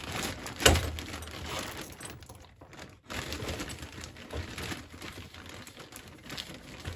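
Plastic bag rustling and crinkling as small chainsaw parts are handled and bagged, with a sharp knock a little under a second in and scattered light clicks.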